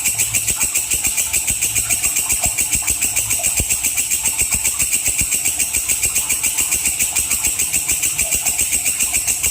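Walang kecek, a grasshopper-like singing insect, calling in a fast, even train of high-pitched, sharp chirps, about seven a second.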